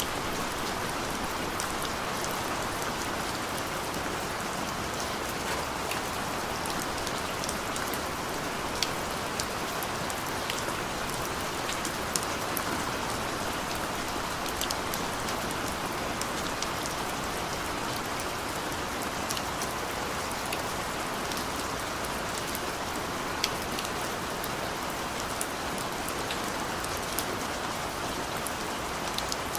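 Steady rain falling, an even hiss with scattered sharper drip ticks of individual drops striking a surface.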